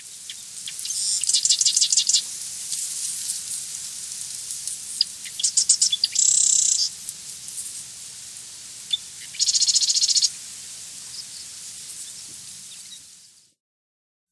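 Nature ambience of birds chirping and trilling, with several loud rapid trills over a steady high hiss; it fades in at the start and fades out near the end.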